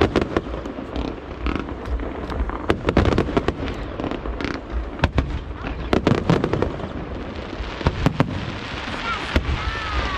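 Aerial fireworks display: an irregular run of sharp bangs from shells bursting, over a continuous crackle, with a few short whistles near the end.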